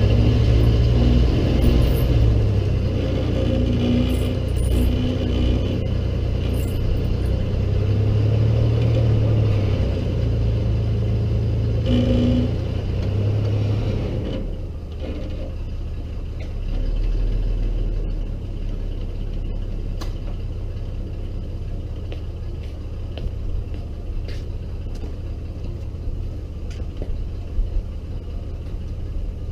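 1998 Chevy Blazer's 4.3-litre V6 running on jack stands with the rear axle driven, its speed raised and wavering for about the first fourteen seconds, then dropping back to a steady idle. A few faint clicks near the end.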